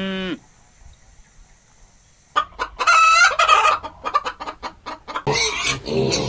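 Chickens: a rooster crows a little over two seconds in, followed by a quick run of clucks. A louder animal call starts near the end.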